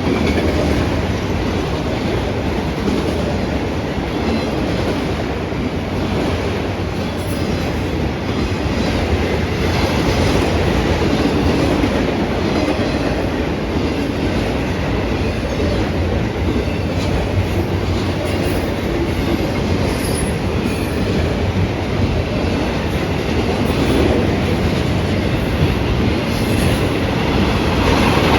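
Freight train cars rolling past on the rails: a steady, loud rumble of wheels on track, with a few brief high wheel squeals now and then.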